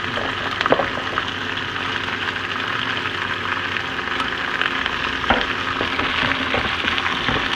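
Diced chicken frying in a hot cast-iron skillet: a steady sizzle, with a couple of brief knocks, about a second in and again after five seconds.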